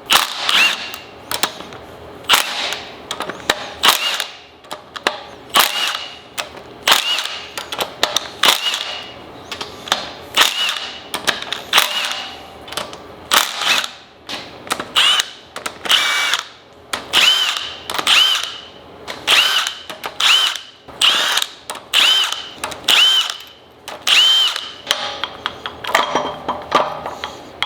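Cordless power tool run in short bursts, about one a second, each with a brief rising whine as the motor spins up, backing out bolts while a Subaru boxer engine is being taken apart.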